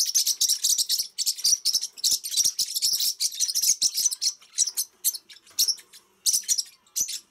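Pacific parrotlet chirping rapidly in a fast, high-pitched chatter that breaks up into separate short bursts about halfway through.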